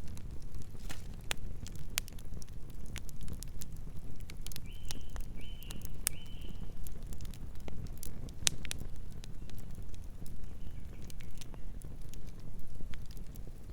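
Campfire burning: wood crackling with irregular sharp pops over a low steady rumble of flame. About five seconds in, three short high chirps come close together.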